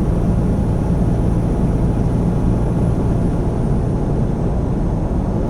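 Semi truck's engine and road noise heard from inside the cab while driving at highway speed: a steady low drone.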